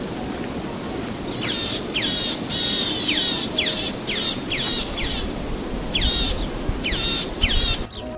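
Bird calls over outdoor background noise: a thin high whistle, then a rapid run of sharp notes, each sweeping steeply down in pitch, repeated about a dozen times. The calls cut off abruptly near the end.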